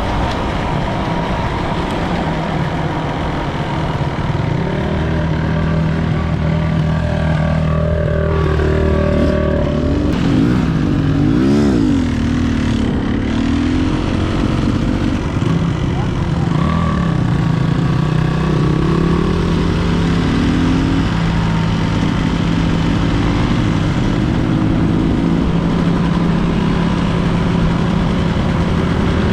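Enduro dirt bike engine running steadily under riding, its revs rising and falling a few times.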